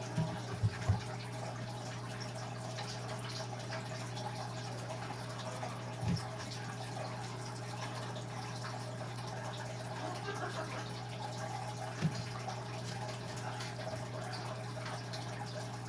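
Small wet drips and clicks of boiled cicadas being handled in cold water as their wings are pulled off, a few light knocks now and then, over a steady low hum.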